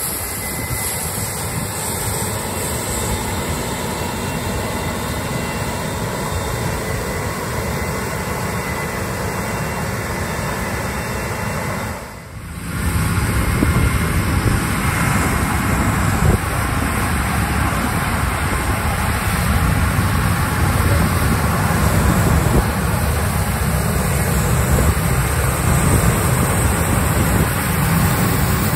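Heavy harvest machinery running in the field: the steady rumble and roar of combine harvester and tractor engines. About twelve seconds in the sound drops out briefly and comes back louder, with a heavier low rumble.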